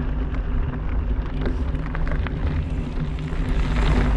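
A vehicle engine running steadily while riding over rough trail, with scattered clicks and rattles and wind buffeting the microphone.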